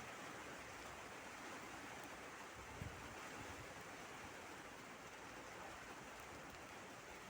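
Steady rain falling, an even hiss, with one brief low thump about three seconds in.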